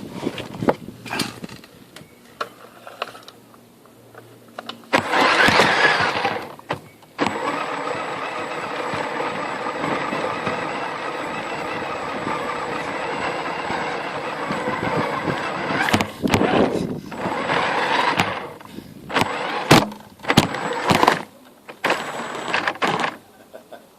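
Electric motor and gear drive of a Tamiya CC01 radio-controlled truck running under throttle in bursts, with sharp knocks and clatter from the chassis. After a short burst there is a long steady stretch of running, then several short throttle bursts with knocks near the end.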